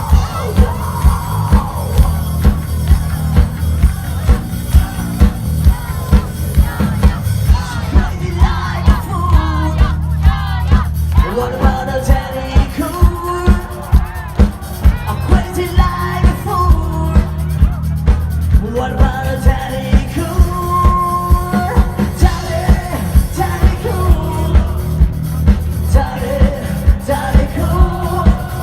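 Rock band playing live: a heavy, steady drum beat and bass throughout, with a singer's voice joining about eight seconds in.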